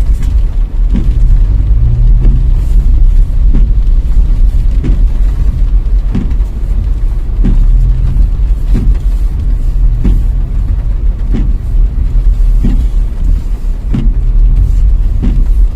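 Car cabin road rumble while driving in heavy rain, with windscreen wipers thudding on each sweep about every 1.3 seconds.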